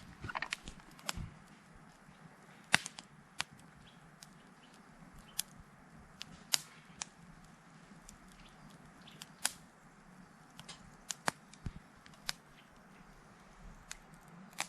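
Wood fire crackling, with sharp pops at irregular intervals, about one or two a second, over a faint steady hiss.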